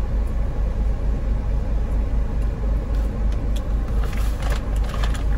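Steady low rumble inside a car with the engine idling, with a few faint rustles about four seconds in.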